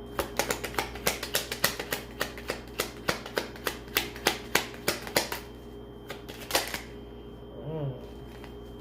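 A deck of tarot cards being shuffled by hand: a quick run of sharp card clicks, about three or four a second, that stops about two thirds of the way through, with one more click after it.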